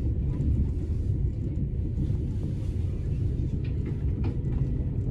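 Steady low rumble inside a DSB IR4 (Litra ER) electric multiple unit, with a few faint clicks near the end.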